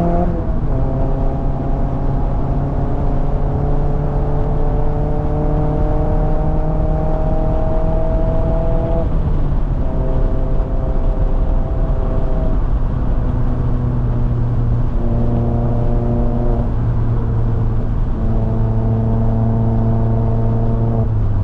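Mazda MX-5 Miata (ND) 2.0-litre four-cylinder engine pulling uphill, heard from the cabin: revs climb steadily for about nine seconds, then drop and hold fairly level with several brief dips as the throttle is lifted or gears change.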